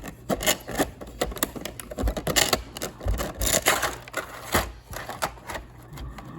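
Small plastic toy train pieces and their packaging handled by hand: many irregular clicks, taps and rustles.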